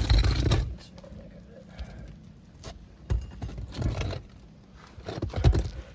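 Intermittent scraping, clicking and tearing of asphalt roof shingles being worked loose and pulled up, with several heavy low thumps of handling, near the start, twice in the middle and near the end.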